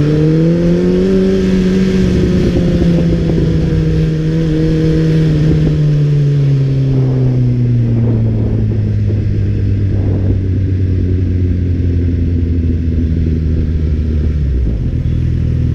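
Suzuki Hayabusa's inline-four engine running while the bike is ridden at low speed. Its pitch rises about a second in and holds, then sinks slowly from about six seconds in and settles to a steady lower note.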